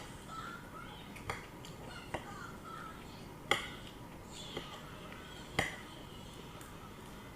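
Eating utensil clinking against a dish five times at irregular intervals, the louder strikes about three and a half and five and a half seconds in.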